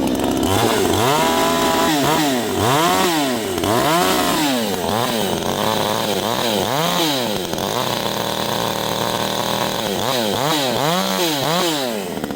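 Vevor 62cc two-stroke chainsaw running just after being pull-started, revved up and down over and over, about once a second, with a steadier stretch in the middle.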